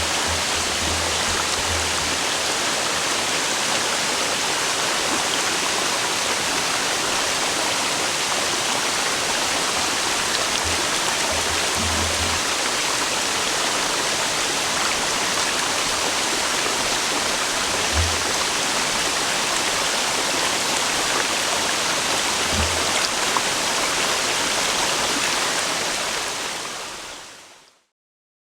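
A river running steadily with a constant rushing sound that fades out near the end, with a few brief low bumps under it.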